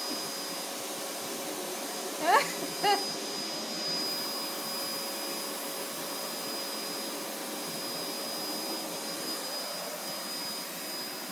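Vacuum cleaner running with a steady whirring hum. About two seconds in, two brief rising calls sound over it.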